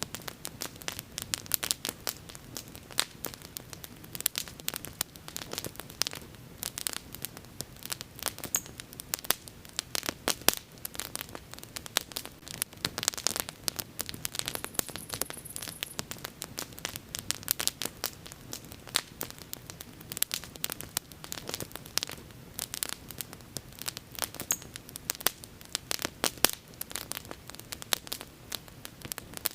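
Wood bonfire crackling: dense, irregular sharp pops and snaps over a low, steady rush of the flames.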